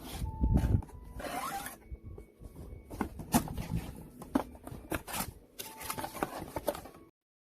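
Close handling noises: a busy run of short clicks, rubs and raspy scrapes, likely the humidifier or its packaging being handled. The sound cuts to dead silence shortly before the end.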